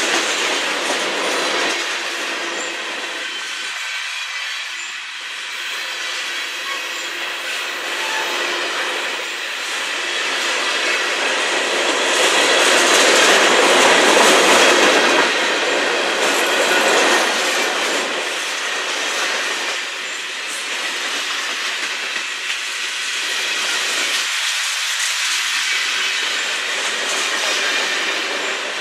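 Freight cars of a CN manifest train rolling past close by, mostly covered hoppers: steel wheels running over the rails in a continuous rumble and rattle. It grows louder about halfway through, then eases off.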